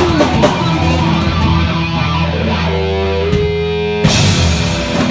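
Live funk-rock band playing electric guitar, bass and drums, with a distorted guitar note sliding up and held about three seconds in, and a loud full-band hit about four seconds in, typical of a song's closing bars.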